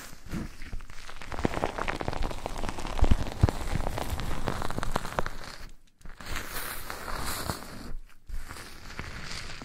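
Close-miked ASMR crackling and rustling from something being rubbed and scratched over an ear microphone, dense with small clicks. It stops briefly twice, about six and eight seconds in.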